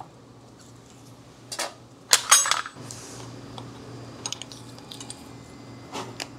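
Small metal tools and parts clinking as they are handled, with a few sharp taps and one louder, ringing clink about two seconds in, over a steady low hum.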